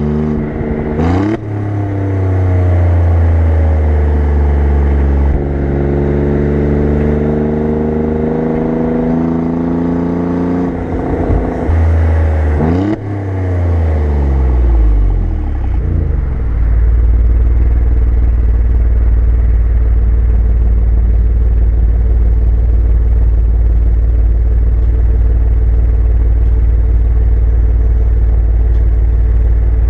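Exhaust of an Alfa Romeo Giulia Quadrifoglio's twin-turbo V6, heard close at the tail: the engine rises sharply in pitch about a second in and pulls at slowly falling revs, rises and falls again about 12 seconds in, then settles to a steady idle for the second half.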